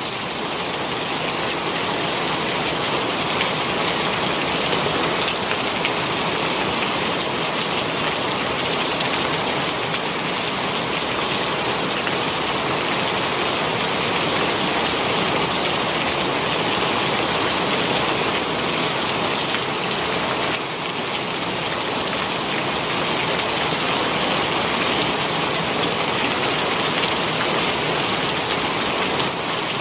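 Heavy rain pouring down steadily, a dense even hiss of drops with a brief slight dip in loudness about two-thirds of the way through.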